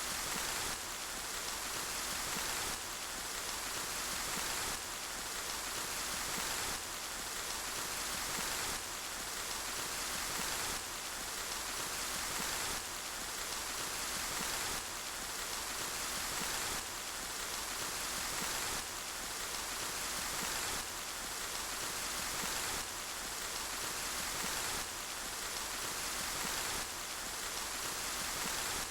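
Steady rain falling, an even hiss of many drops. It comes in short repeating cycles of about two seconds, each starting with a small jump in loudness.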